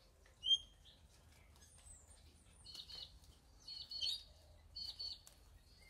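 Garden birds singing: one sharp high call about half a second in, then short high chirps in little groups about once a second.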